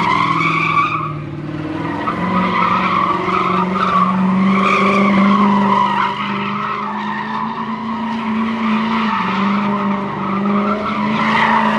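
Car tyres screeching in long, continuous slides, with an engine held at high revs underneath. The screech wavers in pitch and dips briefly a little over a second in.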